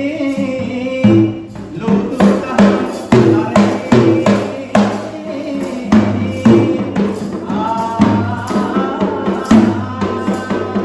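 Sri Lankan traditional drumming: many sharp, fast drum strokes in a driving, uneven rhythm. A sung chant breaks off about a second in, and a melodic line comes back over the drums near the end.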